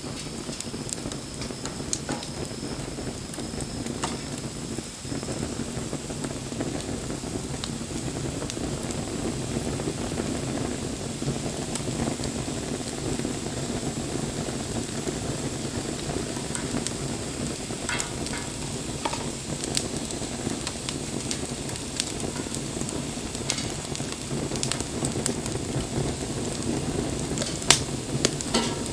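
Wood campfire burning: a steady hiss with scattered crackles and sharp pops, one louder pop near the end.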